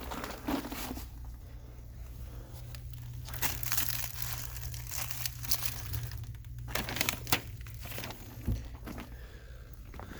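Plastic vapor-barrier sheeting crinkling and crunching irregularly under someone crawling over it, over a steady low hum.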